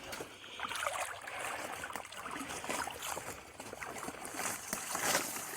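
Creek water sloshing and splashing unevenly around the legs of a person wading in hip boots.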